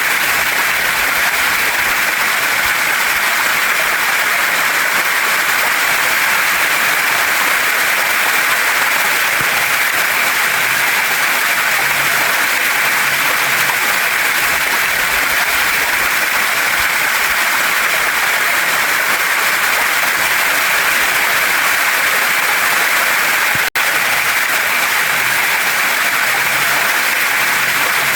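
Waterfall and mountain stream: water rushing steadily over rocks in an even, continuous hiss. There is a split-second break in the sound about 24 seconds in.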